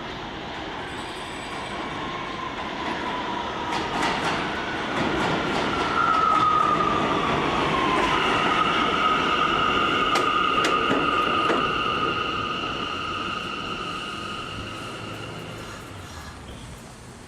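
R179 subway train running on the rails, the rumble swelling and then fading. A steady high wheel squeal sets in about six seconds in and dies away near the end, with a few sharp clicks from the rails.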